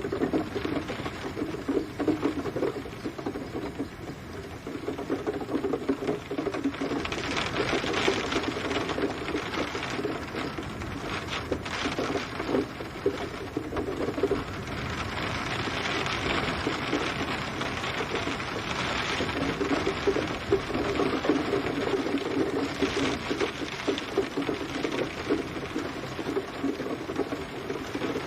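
Steady rain: a dense, rapid patter of drops hitting a surface, swelling and easing over a few seconds at a time.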